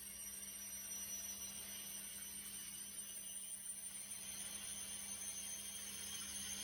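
Washing machine running with a big unbalanced load: a faint, steady low rumble and hum with a thin high whine, without distinct knocks.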